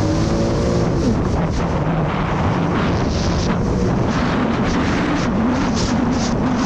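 Jet ski engine running under way, its pitch shifting up and down with the throttle, under heavy wind noise on the microphone.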